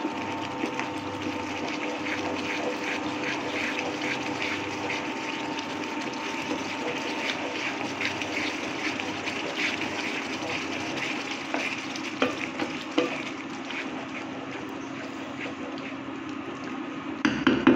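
Spiced tomato masala sizzling in oil in a non-stick pan while a spatula stirs and scrapes it, with many small crackles and scrapes. A steady hum from the induction cooktop runs underneath. The stirring gets louder near the end.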